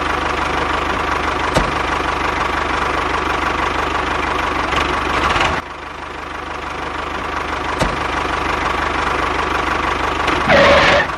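Tractor engine running with a steady knocking beat. About five and a half seconds in it suddenly drops quieter, then builds gradually back up, with a short louder burst near the end.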